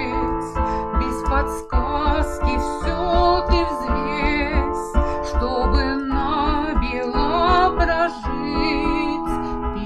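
A song: a woman singing with vibrato over piano accompaniment.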